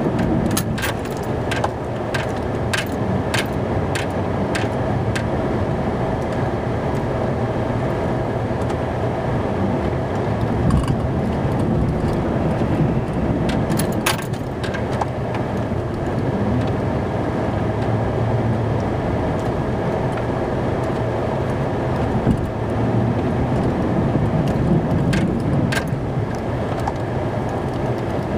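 Snow-plow truck running, a steady engine and road rumble heard from inside the cab, with a quick run of light clicks and rattles in the first few seconds and again about halfway and near the end.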